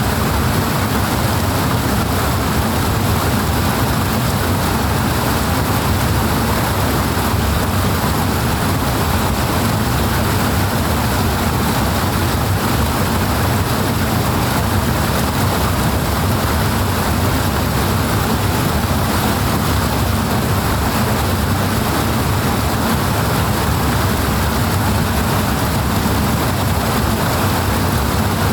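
Steady, loud rush of flowing water, an even unbroken roar with no change in level.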